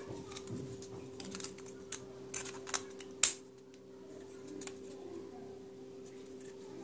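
A few light clicks and taps, the loudest a little over three seconds in, over a steady low hum.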